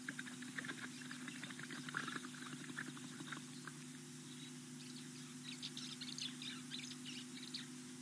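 Small birds chirping in quick runs: a lower, busier run over the first three seconds or so, then a higher-pitched run from about five seconds in. A steady low hum lies underneath.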